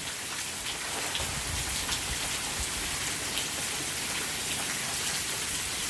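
Steady rain falling, a constant hiss of rain with faint drop ticks.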